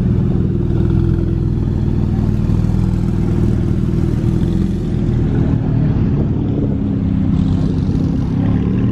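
A car engine running steadily at low revs, a continuous low rumble with no revving.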